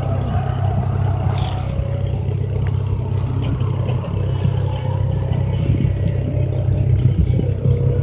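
Off-road rally car engine running with a steady low drone, with faint pitch glides that rise and fall as the engine note changes.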